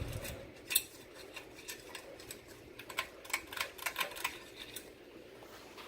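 Hampton Bay Landmark Plus ceiling fan running on high speed with a steady whir, and irregular light clicks and ticks over it, the loudest about a second in.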